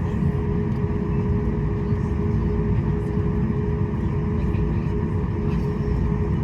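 Cabin noise inside a Boeing 737 MAX 8 with its engines running: a steady rumble with a constant hum on top.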